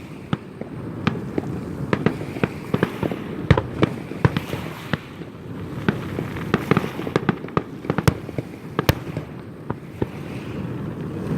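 Fireworks display: many sharp bangs and cracks going off irregularly, several a second at times, over a continuous rumble of more distant bursts.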